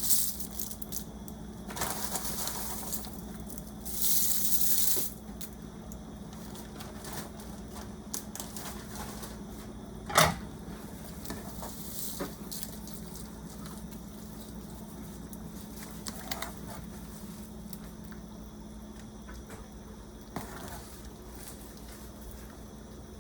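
Kitchen cookware being handled: bursts of rustling hiss in the first five seconds, then a sharp knock about ten seconds in and a few fainter clinks of utensils on a pot later, over a low steady hum.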